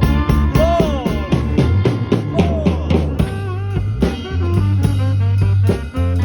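Band playing a slow blues: an electric guitar lead with bent notes over bass guitar and a drum kit.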